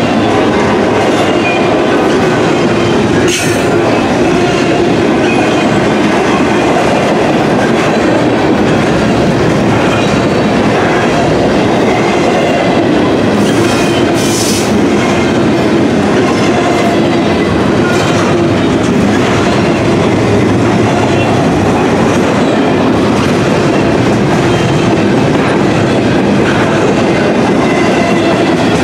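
Double-stack intermodal container well cars rolling past at close range: a loud, steady rumble of steel wheels on rail with clickety-clack over the joints. A couple of brief, sharp high-pitched noises cut through, about three and a half seconds in and again around fourteen seconds.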